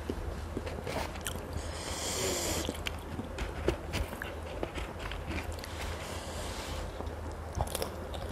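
Close-up mouth sounds of a person chewing noodles: wet clicks and lip smacks, with two longer breathy noises, about two seconds in and about six seconds in.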